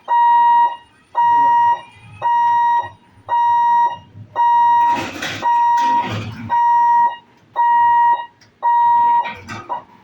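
Railway level-crossing warning alarm beeping: one steady high electronic tone repeating about once a second, each beep a little over half a second long, stopping near the end. It signals that the crossing gate is closing for a train. A short burst of rushing noise comes about halfway through.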